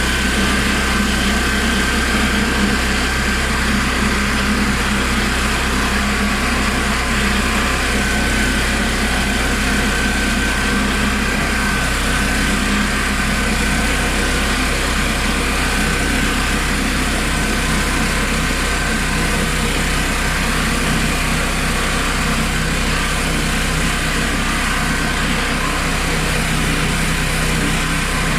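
Honda GX390 single-cylinder petrol engine running steadily, driving a homemade portable sawmill, with a thin steady whine above the engine note.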